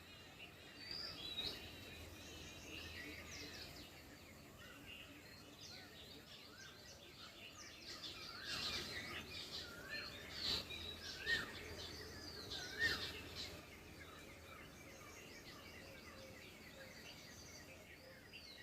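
A chorus of several wild birds chirping and calling at once, many high chirps overlapping, busiest in the middle, with a few short rising whistled notes among them.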